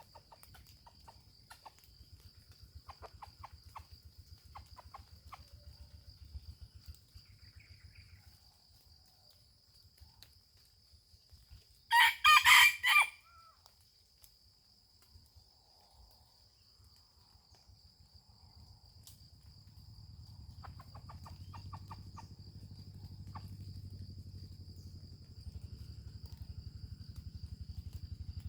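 A rooster crows once, loud, about 12 seconds in, with faint short clucking calls before and after. A steady high-pitched drone runs underneath throughout.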